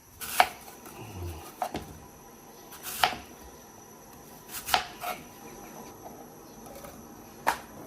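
Knife chopping through fruit onto a cutting board: about six sharp, separate chops spaced irregularly, a second or more apart.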